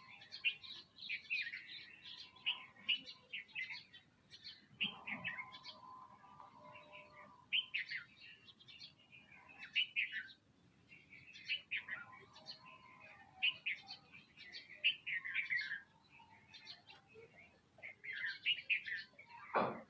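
A flock of small birds chirping, with many short, quick chirps overlapping throughout. Near the end, a sharper call sweeps down in pitch.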